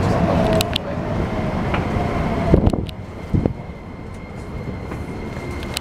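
Keikyu New 1000-series electric train heard from inside a car as it brakes to a stop: rolling and motor noise with a faint whine from the Toyo hybrid SiC VVVF inverter. About two and a half seconds in there is a jolt as the train halts, then the noise drops to a quieter steady hum, with another short thump a moment later.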